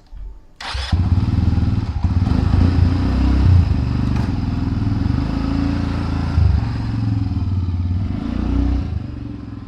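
A vehicle engine starts with a sudden burst of noise under a second in, then runs with a low, steady throb that eases off slightly near the end.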